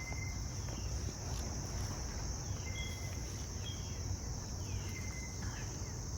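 Steady high-pitched drone of insects such as crickets, with short bird whistles and falling chirps every second or so. A low rumble runs underneath.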